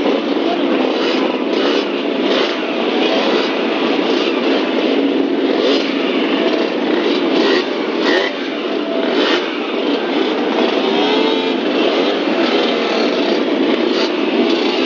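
An old vehicle engine running on the road: a loud, continuous running noise with faint wavering whine tones and scattered clicks and rattles.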